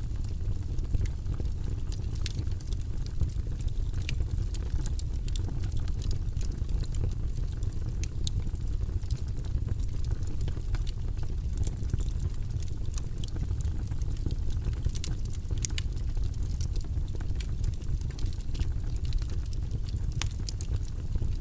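Wood fire burning in a fireplace: a steady low sound of the flames with frequent sharp crackles and pops scattered through it.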